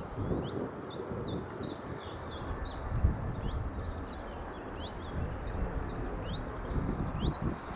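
Small birds chirping busily, many short quick high notes, over a low gusty rumble of wind on the microphone.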